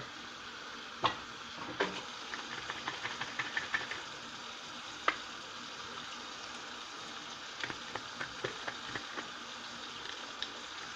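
Lemon being squeezed over raw chicken pieces and the pieces handled: scattered light wet clicks and taps, with a quick run of small ticks early on and another bunch near the end, over a steady faint hiss.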